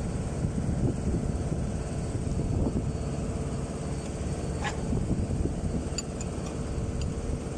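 Steady low machine rumble, with a few short light clicks near the end.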